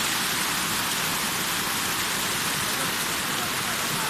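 Waterfall: a steady, unbroken rush of falling water, a hiss strongest in the upper range.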